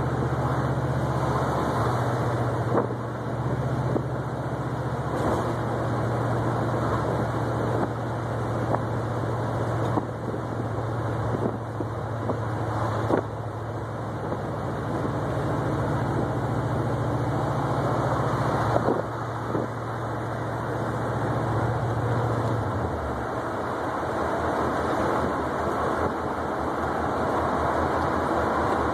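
1972 Oldsmobile 442's V8 engine running as the car cruises, heard from inside the cabin with road noise; the low engine drone holds steady, then drops away about three-quarters of the way through.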